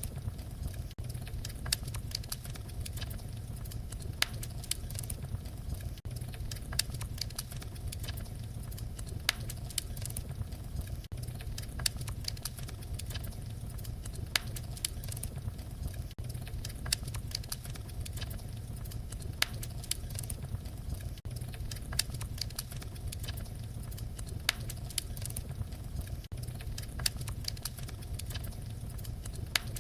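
Wood fire crackling in a fireplace: a steady low rumble of flames with irregular sharp pops and snaps, a louder pop every couple of seconds.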